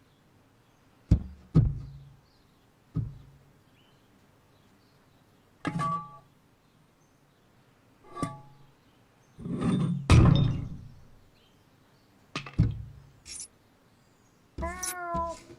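Cartoon sound effects: a string of separate thuds and knocks, some with a short ringing tone and one longer scuffling burst in the middle. Near the end comes a brief, wavering, cat-like call.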